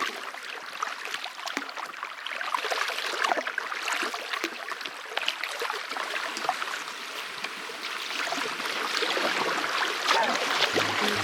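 Water of a rain-swollen small river rushing and splashing, full of small crackling gurgles. Music comes in about a second before the end.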